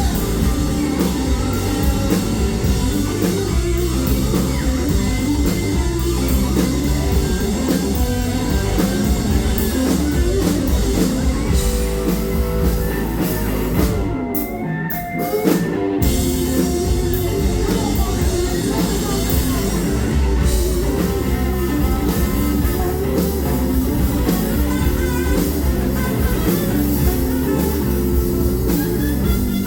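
Southern rock band playing live, electric guitars over a drum kit in an instrumental stretch. The sound briefly thins out around the middle.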